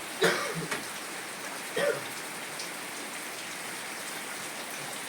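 Steady rainfall, an even hiss of rain coming down without a break.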